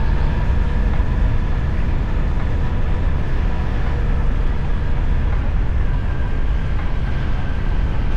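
Yamaha FJR1300's inline-four engine running at a steady pace while riding, under a heavy, even low rumble with no breaks.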